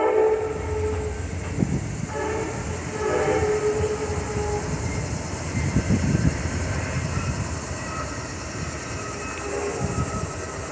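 An Amtrak P42 diesel locomotive sounds its horn in two blasts in the first few seconds, then rumbles past over a grade crossing with its passenger cars rolling behind it.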